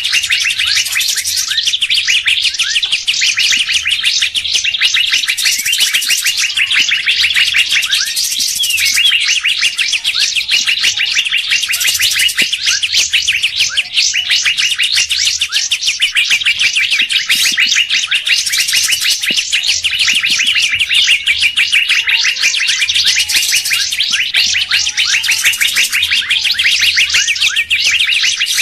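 Bird lure-call recording: a dense, unbroken chorus of rapid high chirping and chattering from many small songbirds, swelling every few seconds. A few faint lower whistles come in during the second half.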